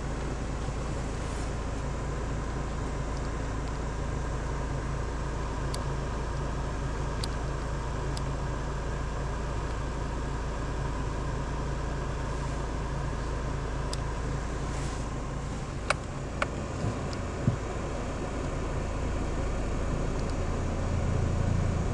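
Car engine running at low speed, heard from inside the cabin as a steady low hum, with a few short clicks about sixteen to seventeen seconds in and the engine note growing slightly louder near the end.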